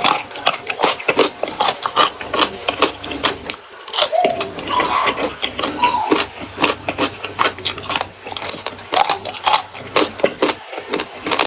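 Close-miked mouth chewing and crunching of raw vegetables with rice and sambal: a loud, rapid run of wet crackles and crunches with brief pauses.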